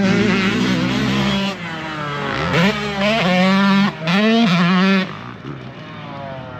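Motocross dirt bike engine running at high revs on the track, its pitch dropping briefly and climbing again twice as it shifts through the gears, then backing off about five seconds in.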